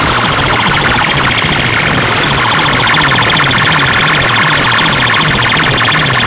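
Loudspeaker sound system played very loud: a siren-like warbling tone over quickly repeating falling bass sweeps, harsh and steady throughout.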